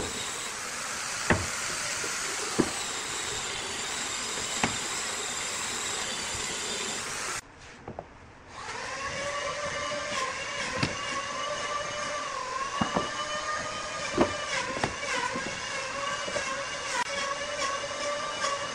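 Wood lathe running with a turning tool cutting the spinning wood: a steady hiss with occasional sharp clicks, a brief dip about seven seconds in, then a steady whine whose pitch wavers slightly.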